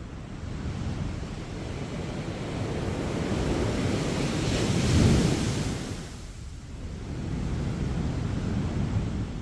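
Sea waves breaking on a beach: a wave builds and crashes about halfway through, its rush falling away, then the next swell rises near the end.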